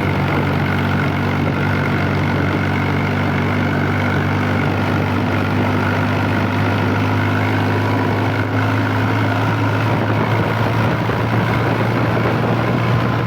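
Swaraj 735 tractor's three-cylinder diesel engine running steadily on the road, a low even drone whose pitch edges up slightly near the end.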